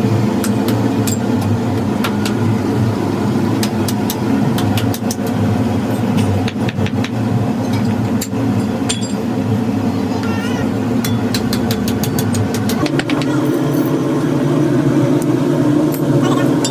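Steady hum of a running motor or engine in a metal workshop, its pitch shifting about thirteen seconds in, with many sharp clicks and knocks throughout.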